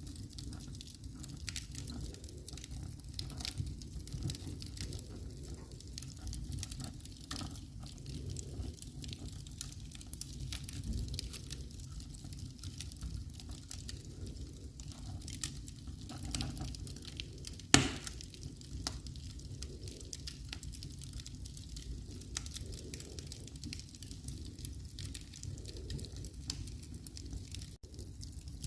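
Wood fire crackling in a fireplace: a steady low rumble of flames under a scatter of small crackles, with one loud pop about eighteen seconds in.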